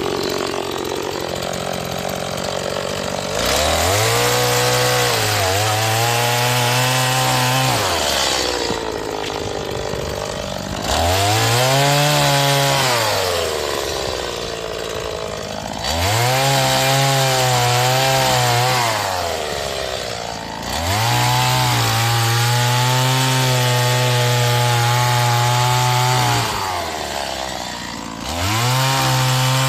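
STIHL MS 180 two-stroke chainsaw, still being run in, cutting firewood: the engine revs up and holds for several seconds through a cut, then drops back to idle, four times over, and revs up again near the end.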